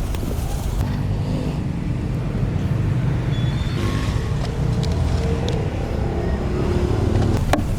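A steady low rumble of a running motor, with a few faint higher tones over it.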